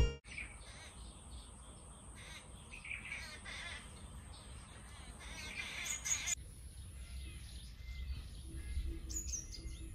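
Birds chirping and calling, faint and scattered, over a steady thin high-pitched tone; the background changes abruptly about six seconds in.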